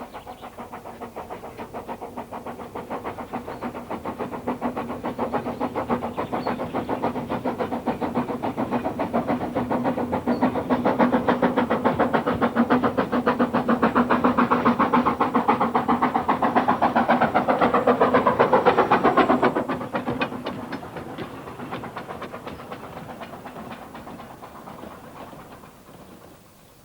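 Narrow-gauge steam train running past: a rapid, even beat over a steady hum, growing louder to a peak and then fading away over the last several seconds.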